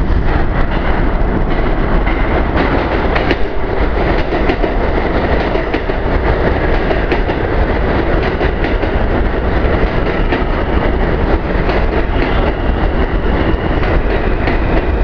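R160A subway train running fast into a station: a loud, steady rush of wheels on rail with repeated clicks over rail joints. A high steady whine comes in near the end.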